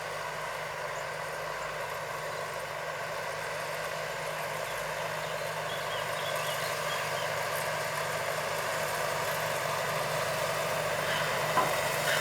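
Diesel engine of a farm machine running steadily, growing gradually louder.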